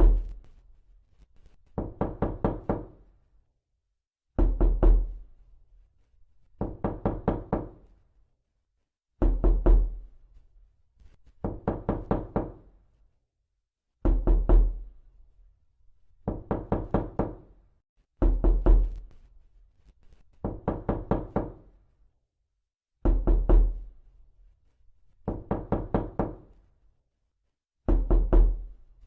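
Repeated knocking: quick bursts of about five or six raps, a burst roughly every two and a half seconds. Louder bursts with a deep thud alternate with softer ones.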